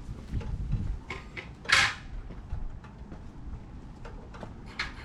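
Handling noises: a few light clinks and knocks, with one short, sharp rush of noise just before two seconds in, the loudest sound here.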